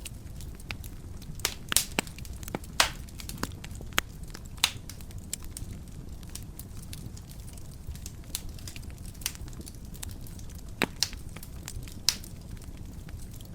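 Wood fire burning in a fireplace: a steady low rumble of flames with irregular sharp crackles and pops, a cluster of louder pops in the first few seconds and another pair near the end.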